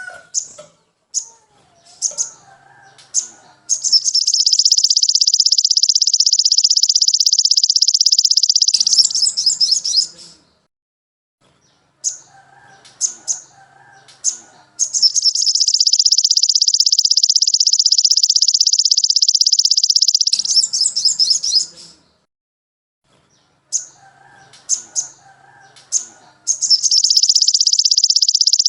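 Small songbird singing a repeated phrase: a few short, high chirps followed by a long, very fast, high-pitched trill of about five seconds. The phrase comes round three times, with brief pauses between.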